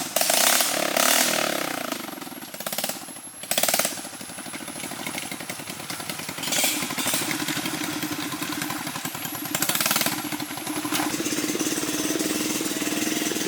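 A small engine running with a rapid, even pulse, its pitch rising slightly near the end, broken by a few brief loud rushes of noise.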